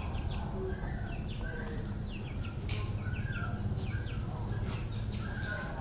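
Small birds chirping in short, repeated notes over a low steady rumble.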